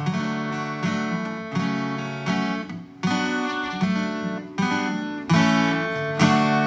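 Acoustic guitar strumming chords, one strum roughly every three-quarters of a second, as the song's instrumental close.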